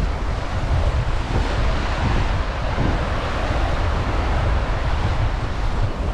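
Ocean surf washing on a beach, with wind buffeting the microphone in a steady low rumble.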